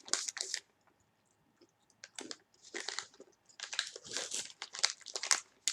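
Plastic snack bag crinkling in short, irregular bursts, with a pause of over a second before it starts again.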